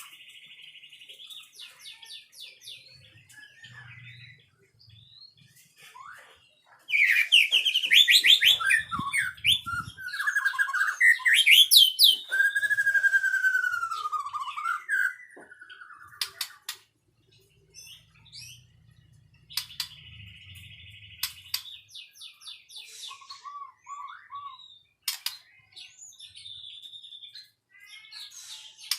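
White-rumped shama (murai batu) singing: quieter twittering and chattering, broken by a loud run of varied whistles, rapid trills and sweeping notes from about seven to sixteen seconds in.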